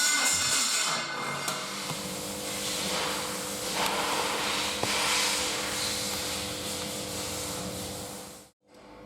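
Steady mechanical whirring, most likely the electric starter cranking a Mitsubishi 4B12 2.4 16V engine for a compression test. It cuts off abruptly near the end.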